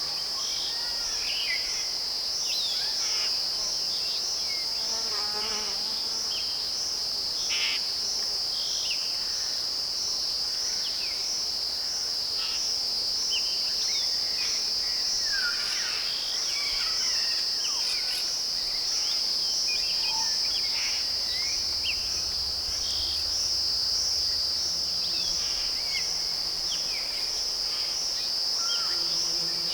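A chorus of insects makes a steady, high, shrill trill that pulses evenly, while birds give short scattered chirps and whistles beneath it.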